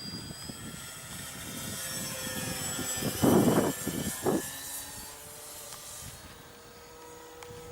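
Small electric RC model plane's motor and propeller whining in flight, swelling over the first few seconds and then fading as it passes. Wind buffets the microphone, with two louder gusts of rumble about three and four seconds in.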